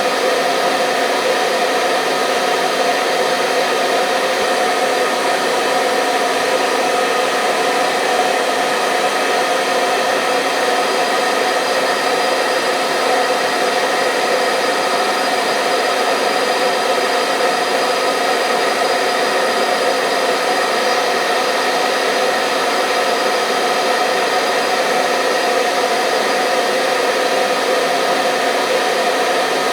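Hair dryer running continuously: a steady blowing rush with a faint motor hum, unchanging in level.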